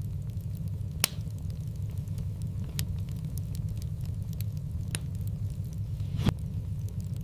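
Wood fire burning in a fireplace: a steady low rumble of flame with light crackling, broken by a few sharp pops about a second, three seconds, five seconds and six seconds in.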